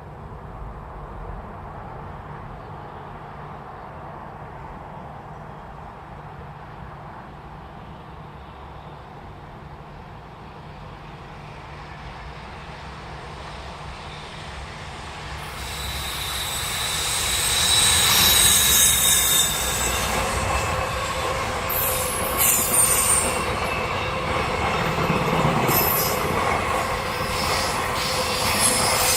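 A train approaches, growing louder from about halfway through, then passes close by with its wheels squealing in high, steady tones and a repeated clatter of wheels over rail joints.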